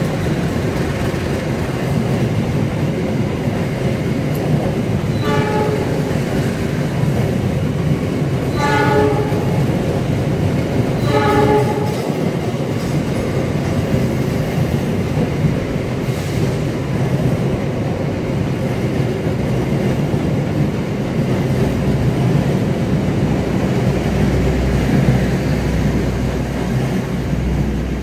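Passenger train coaches rolling past on the platform track with a steady rumble, while a train horn sounds three short blasts about five, nine and eleven seconds in. A deep hum comes up in the last few seconds.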